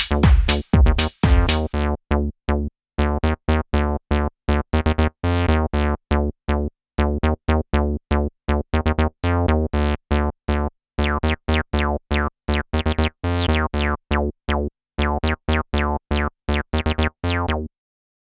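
Behringer TD-3 analog bass synth playing a sequenced, squelchy acid bassline of short staccato notes with resonant filter sweeps in TB-303 style. The drum loop drops out about two seconds in, leaving the bassline alone until it stops suddenly shortly before the end.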